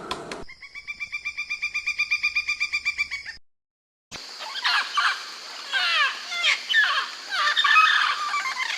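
Birds calling: first a rapid pulsed trill of about nine notes a second that grows louder. After a short break comes a busy chorus of many overlapping chirps, each sliding down in pitch.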